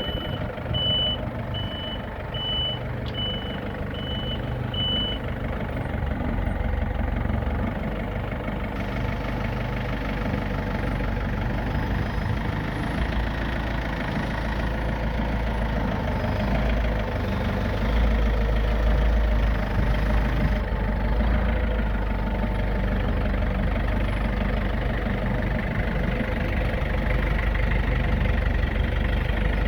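A vehicle's reversing alarm beeps over a running engine. The beeps stop about five seconds in, and the engine runs on alone, with its low rumble growing stronger later on.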